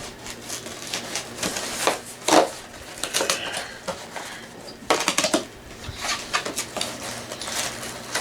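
Snack-cake packaging being handled: irregular crinkling and crackling of a box and plastic wrapper, with the loudest rustles about two and five seconds in.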